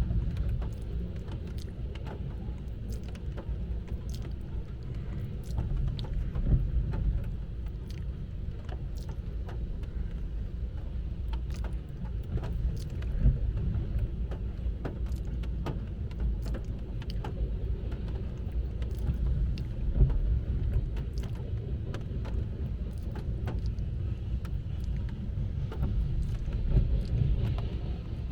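Low, steady rumble of a BNSF freight train going by, heard from inside a car. Raindrops tick on the car, and an intermittent windshield wiper sweeps about every seven seconds.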